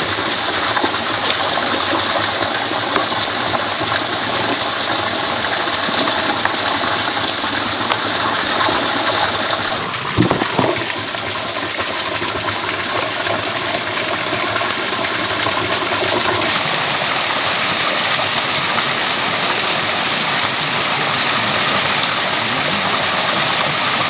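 Water running steadily, with a short knock about ten seconds in.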